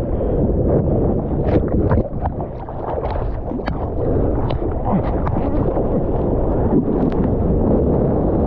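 Heavy wind buffeting an action camera's microphone out on the water. Waves slosh around it, with sharp splashes now and then.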